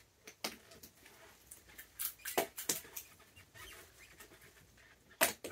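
A few scattered sharp taps and clicks of peanuts being tossed and landing on the deck and in a plastic bucket, the loudest about five seconds in.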